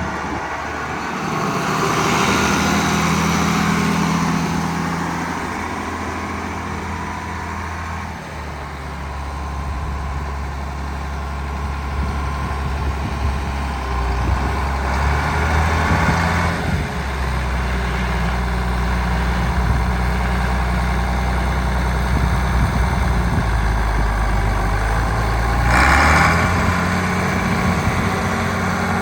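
IH 1066 Turbo tractor's turbocharged six-cylinder diesel engine running, its speed stepping up and down several times. A short hissing burst comes near the end.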